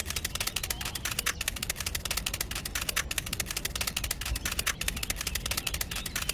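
Miniature clay bricks clicking against one another as they are laid on sand in quick succession: a dense, fast run of sharp clicks, many a second, over a low rumble.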